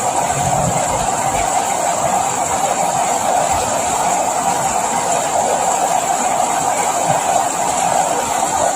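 Steady rain falling, an even, unbroken noise.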